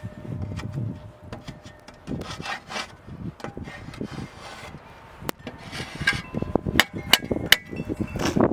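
Ice being scraped by hand in repeated rasping strokes, with several sharp clicks and knocks in the second half.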